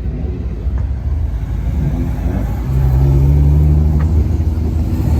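Car engine running with a low rumble, getting louder and holding a steady note about three seconds in.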